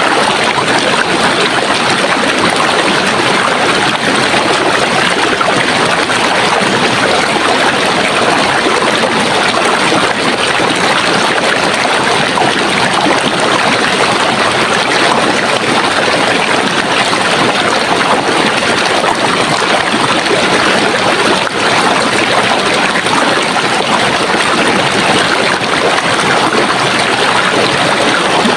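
Running water in a stream, a steady, dense rushing and babbling with no pauses.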